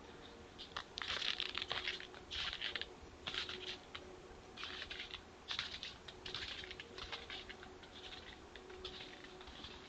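Crunching footsteps in snow, a rough crackle with each step at an uneven walking pace, loudest in the first few seconds and fading later.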